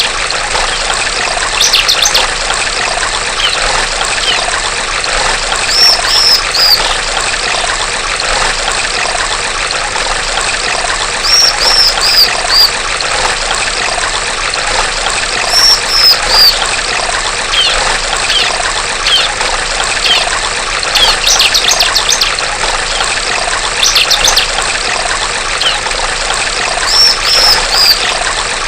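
Female bar-winged prinia (ciblek) calling in short groups of three or four high chirps and quick rattling trills every few seconds, over a steady trickle of running water.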